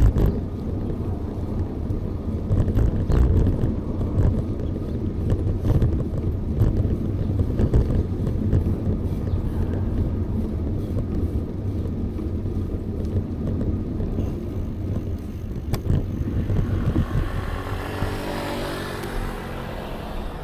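Steady low rumble of wind and road noise from riding a bicycle. Near the end a motor vehicle passes, swelling up and fading away.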